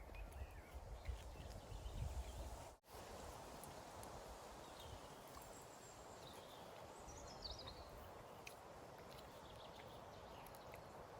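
Quiet forest ambience with a few faint, short high bird calls around the middle; a low rumble in the first few seconds stops abruptly at a cut.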